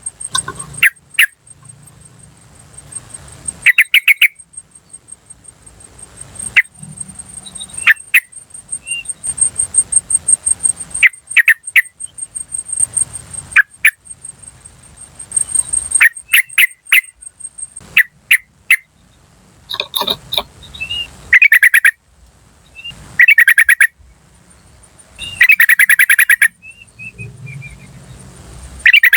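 Yellow-vented bulbuls (trucukan) calling: loud clusters of short, rapid chattering notes, repeated every one to three seconds. A fast, thin high-pitched ticking sounds in the background through roughly the first half.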